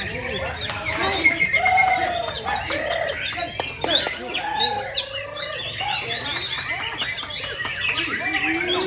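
Many birds calling at once: overlapping chirps and short high sweeping calls over lower curved calls.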